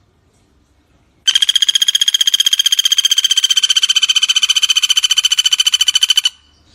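Common flameback woodpecker (pelatuk bawang) giving one long, rapid, evenly pulsed trilling rattle that starts about a second in and cuts off about five seconds later.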